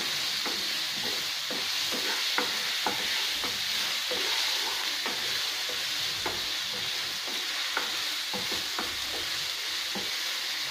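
Chopped onion, tomato and raw mango sizzling steadily in hot oil in a pan. A wooden spatula stirs them, scraping and tapping against the pan at irregular intervals, about twice a second.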